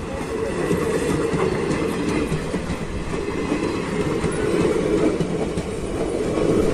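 Indian Railways passenger coaches rolling past at close range, their wheels clattering steadily over the rails beneath a continuous rumble.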